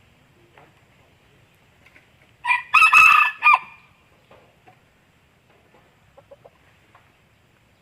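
Rooster crowing once, a loud call of a few linked parts lasting about a second, starting about two and a half seconds in.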